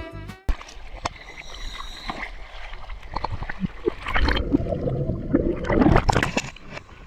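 Water splashing and sloshing with gurgling, in irregular bursts that grow louder between about four and six and a half seconds in.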